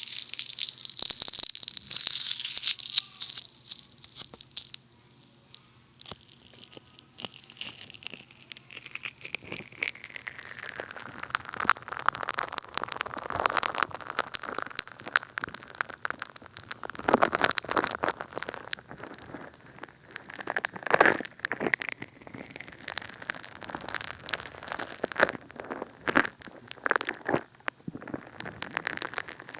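Funny Foam bath foam squished and rubbed against a binaural dummy head's ear microphones: dense crackling and popping of foam bubbles. The crackling dies to a lull a few seconds in, then builds again.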